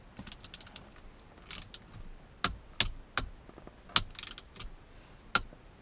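Torque wrench with a T50 Torx socket tightening a seatbelt mounting bolt: short runs of fast ratchet clicking, then about five sharp metallic clicks spaced unevenly through the second half.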